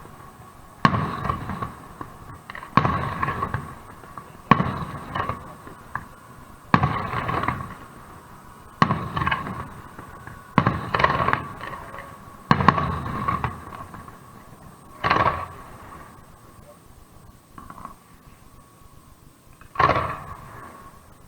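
Aerial firework shells bursting about once every two seconds, each a sudden bang trailing off into a fading rumble and crackle. The bursts thin out in the last third, with a couple of gaps before a final bang near the end.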